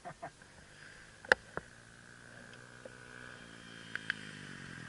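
Dirt bike engine running faintly, with a few sharp clicks; the loudest click comes about a second in.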